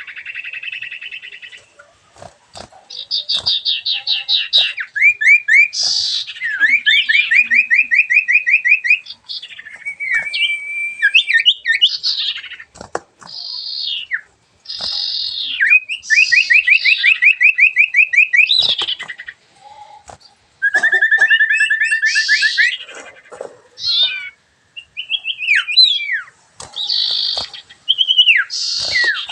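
Songbird singing a loud, varied song: long rapid trills of repeated notes broken up by sharp down-slurred whistles, with hardly a pause.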